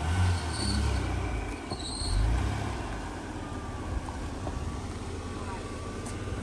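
Car engine running at low speed as the car is moved slowly into a parking spot, with two short high chirps in the first two seconds.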